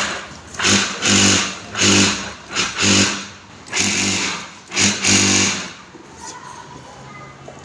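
Singer semi-computerized sewing machine with an internal motor, run in repeated short bursts of stitching. Each run lasts a fraction of a second to about a second, and the runs stop about six seconds in.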